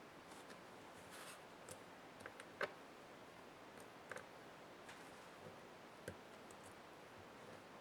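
Scattered small clicks and taps of laptop parts and tools being handled during disassembly, a few seconds apart, the loudest about two and a half seconds in, with a brief soft rustle about a second in.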